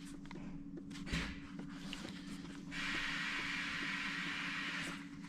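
Air hissing from a Scania truck's air-ride suspension as its height is adjusted by remote, an even hiss lasting a little over two seconds from about halfway through, over a steady low hum.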